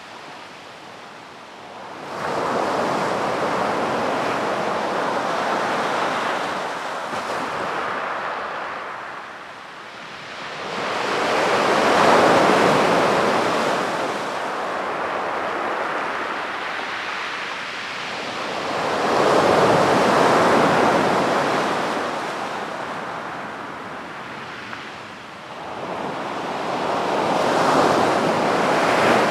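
Sea waves breaking and washing onto a beach, in slow surges that swell and fade about every eight seconds, four times.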